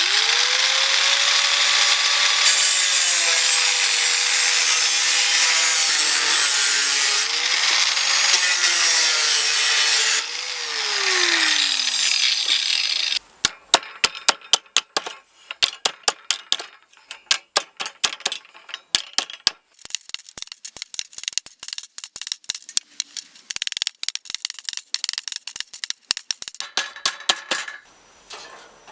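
Power tool running under load with a whine that shifts in pitch and winds down about ten seconds in, followed by a long run of irregular sharp clicking and scraping from hand work.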